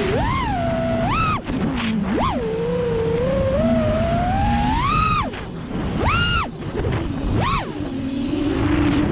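FPV freestyle quadcopter's four brushless motors (GTS V2 2207) and props whining, the pitch jumping up and down with quick throttle punches about six times and one long steady climb midway, cutting back sharply twice. A low rumbling noise runs underneath.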